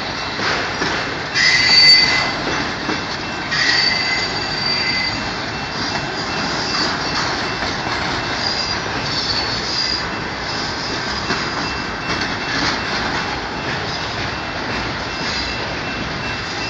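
Freight train of autorack car carriers rolling slowly past, with a steady rumble of the cars and steel wheels squealing against the rails in high-pitched bursts, loudest about a second and a half in and again near four seconds in.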